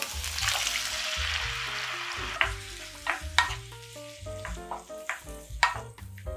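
Diced tomatoes dropping into hot oil and minced garlic, sizzling loudly for the first two seconds before the sizzle dies down. A wooden spatula then stirs them in the pan, knocking against it about five times.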